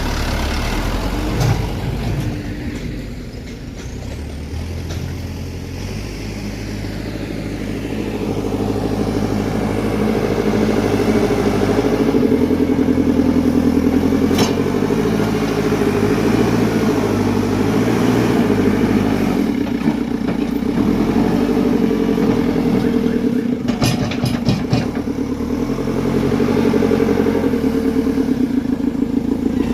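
Dump truck engine running, getting louder over the first ten seconds or so and then holding steady, with a sharp click about halfway and a short run of knocks a little later.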